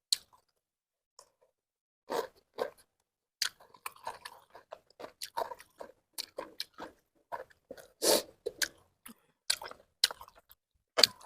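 A person chewing food close to the microphone: a run of short, irregular mouth clicks and smacks that starts about two seconds in.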